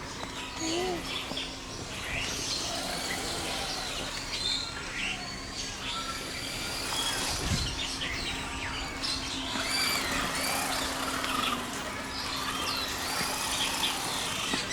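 Many small birds chirping and calling in overlapping short notes, with a steady low hum underneath.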